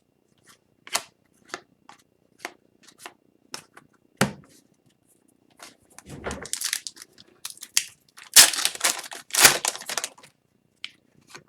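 Trading cards being handled, with scattered short ticks and snaps, then a foil card-pack wrapper crinkling and tearing open between about six and ten seconds in, the loudest part.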